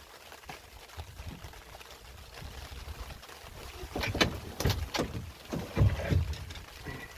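A quiet stretch, then after about four seconds a cluster of knocks and thumps in a small fishing boat as a freshly landed large cod is handled.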